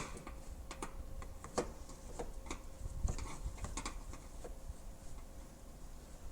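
Scattered, irregular light clicks and taps of hand tools and car body parts being handled, with a sharper click right at the start.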